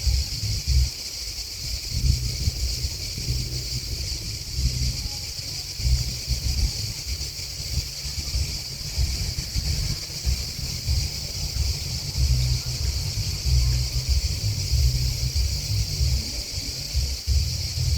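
Steady, high-pitched chorus of chirping insects, continuous without a break. Gusts of wind buffet the microphone underneath as an uneven low rumble, which is the loudest sound.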